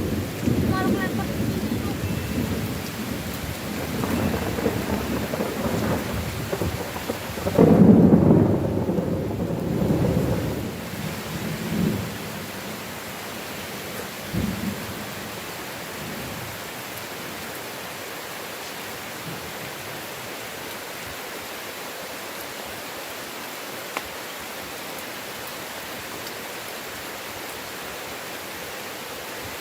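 Thunder rumbling through heavy rain, loudest about eight seconds in and dying away by about twelve seconds, with a smaller rumble a couple of seconds later. Then only the steady hiss of the rainstorm remains.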